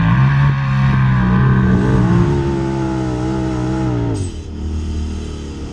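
Car engine revving under hard acceleration: its pitch climbs, holds steady, then drops away abruptly about four seconds in as the throttle comes off.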